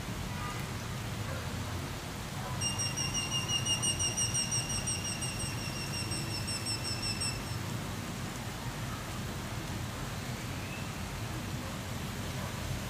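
Rain falling steadily during a thunderstorm. From about two and a half seconds in, a high, rapidly pulsing trill sounds for about five seconds over the rain.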